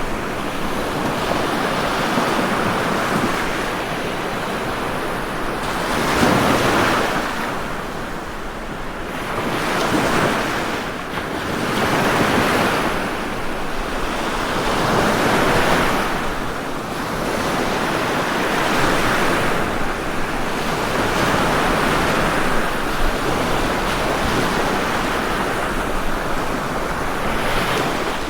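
Ocean waves breaking and washing on a shore, a steady rushing surf that swells and eases every few seconds.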